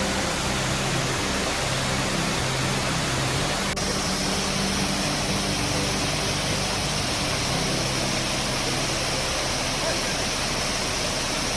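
Waterfall crashing down, a loud steady rush of falling water.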